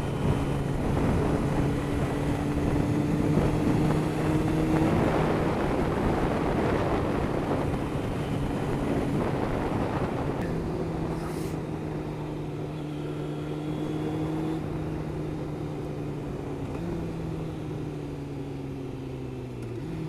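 Motorcycle engine running at speed in top gear, with a steady rush of wind and road noise. The engine note climbs slightly over the first five seconds, then falls away gradually through the second half as the bike eases off.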